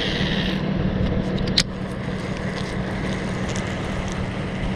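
Electric trolling motor humming steadily under a low rumble, with one sharp click about a second and a half in.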